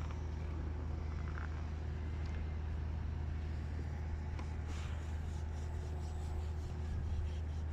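A steady low mechanical hum, like an engine or machinery running, with a few faint light knocks.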